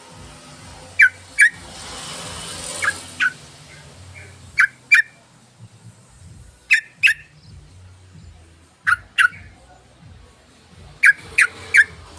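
Yellow-vented bulbul (trucukan) calling: short, sharp downward-sweeping notes in quick pairs, repeated about every two seconds, with a run of three near the end.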